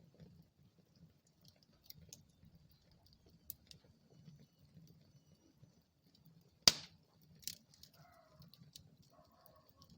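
Wood fire crackling in a fireplace, with scattered small ticks and one sharp, loud pop about two-thirds of the way in, then a smaller pop. Faint wavering whistles come near the end.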